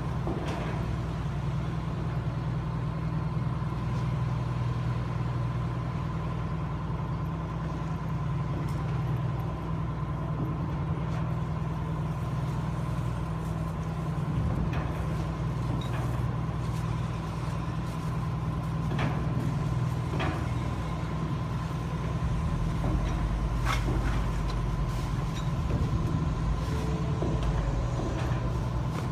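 A car ferry's engines droning steadily: a heavy low rumble with a faint steady whine above it, and a few small clicks and knocks scattered through.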